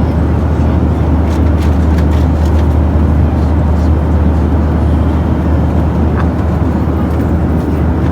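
Steady, loud low rumble of an airliner's engines and rushing air heard inside the passenger cabin, even and unbroken.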